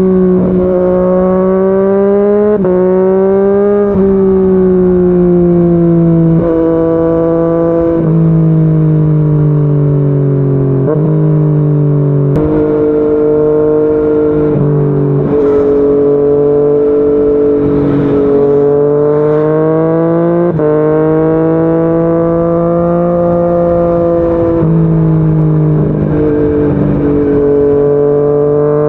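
Yamaha MT-09's inline-three engine running through a Yoshimura R55 slip-on exhaust while riding. Its pitch slides slowly up and down and jumps or drops abruptly several times.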